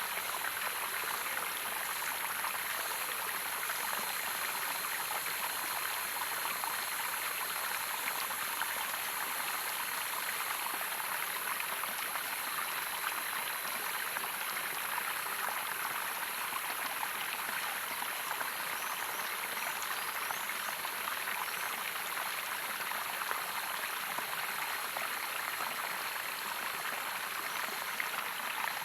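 Running water of a waterfall, rushing and splashing steadily without a break.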